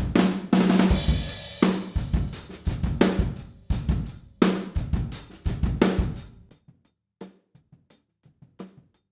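Recorded acoustic drum kit playing a groove with kick, snare and hi-hat through all its microphones. About six and a half seconds in, the low end drops away and only the hi-hat close microphone is heard: thin hi-hat hits with the snare bleeding through.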